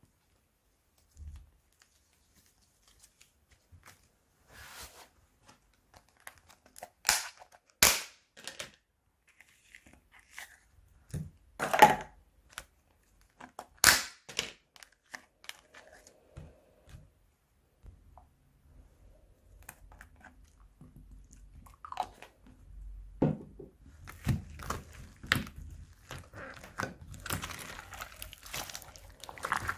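Plastic bags and slime being handled close up: scattered crinkles and sharp crackles, a few loud snaps in the first half, then denser crinkling near the end.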